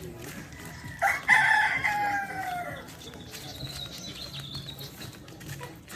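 A rooster crowing once: one long call starting about a second in and dropping in pitch as it ends. A faint, thin high note follows.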